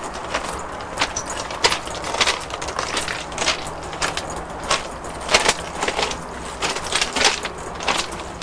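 Footsteps crunching on loose stones at a walking pace, about two steps a second.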